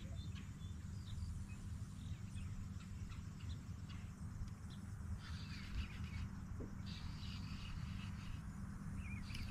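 Birds chirping and calling on and off over a steady low hum.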